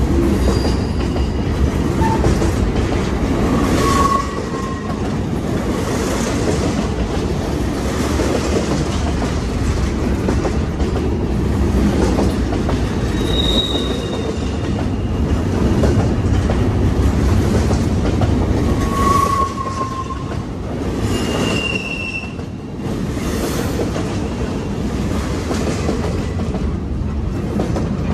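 Double-stack intermodal container train rolling past at close range: a steady rumble and clatter of the well cars' wheels on the rails, with several brief high-pitched wheel squeals.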